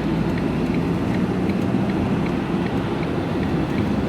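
Steady engine and road noise of a vehicle at speed, heard from inside the cab, with a faint regular ticking about twice a second.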